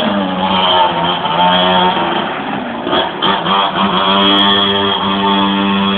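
A minibike's small engine running at a steady pitch, with a brief unsteady change in pitch about halfway through before it settles again.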